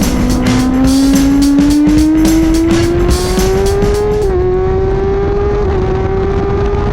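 Kawasaki Ninja ZX-10R race bike's inline-four engine under hard acceleration, heard onboard, its pitch climbing steadily. About four seconds in, and again near six seconds, it upshifts, each time with a small quick dip in pitch before it climbs on.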